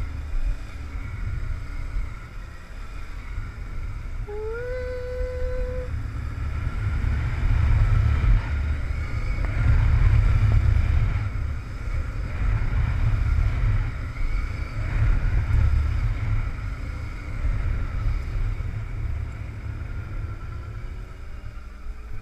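Motorcycle ridden at a steady part-throttle in second gear, its engine note nearly constant under heavy wind rumble on the microphone. A short rising engine tone comes about four seconds in.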